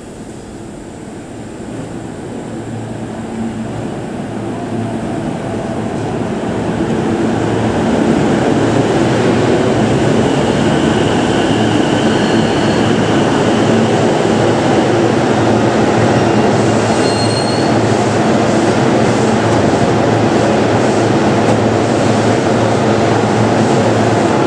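JR East E233 series 2000 subseries electric train pulling into the platform. Its running noise grows louder over the first eight seconds and then stays steady and loud, with a few brief high-pitched squeals in the middle.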